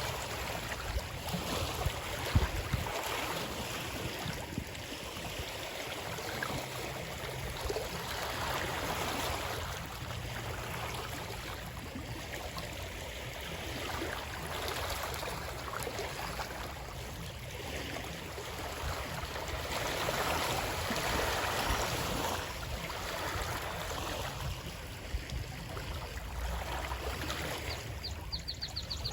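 Water flowing steadily, like a stream, in a continuous rushing that swells and eases over several seconds, with small splashes and clicks.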